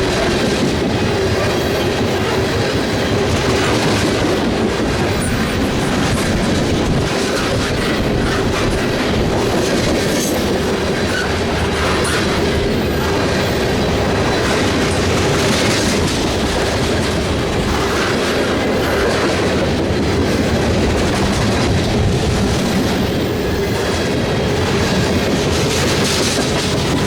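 Freight train cars rolling past, a steady, loud rush of wheel and rail noise with rhythmic clickety-clack over the rail joints and a steady whine underneath.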